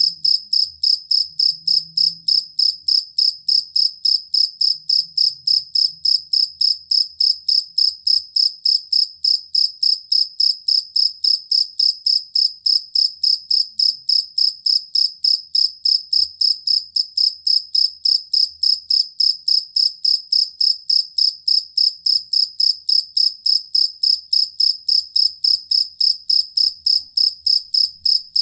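A male field cricket (jangkrik kalung) chirping steadily and loudly, with even, high chirps at about three to four a second and no pauses.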